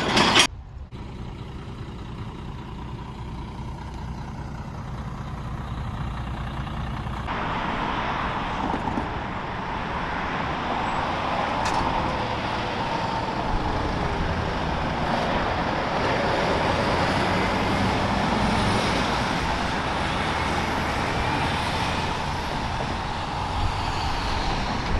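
Heavy truck running, its engine and road noise steady, growing slightly louder over the second half.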